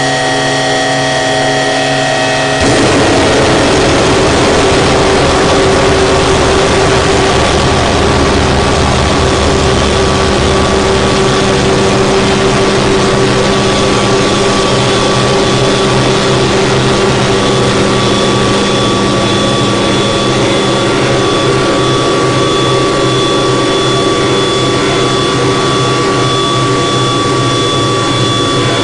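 Harsh noise drone music: a dense wall of distorted noise over a few held, droning tones. About two and a half seconds in it thickens and gets louder, and a deep rumble underneath drops away around eleven seconds in.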